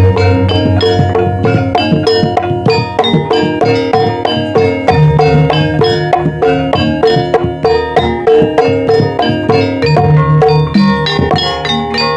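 Javanese gamelan music in the Banyumas ebeg style: bronze metallophones strike a fast, even run of ringing notes over hand-drum strokes and deep sustained low tones.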